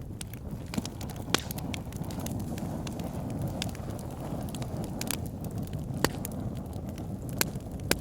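Fire pit burning, with sharp crackles and pops at irregular moments a second or so apart over a steady low rumble.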